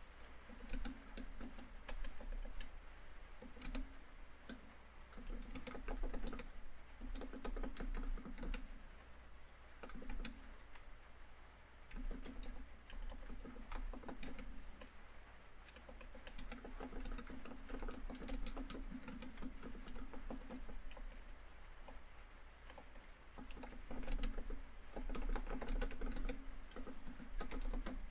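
Typing on a laptop keyboard: bursts of quick key clicks broken by a few short pauses, over a steady background of rain falling on a tin roof.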